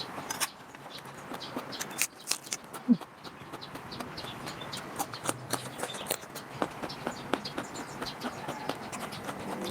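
Close-up eating sounds: chewing and mouth noises, with a quick run of small clicks and crackles.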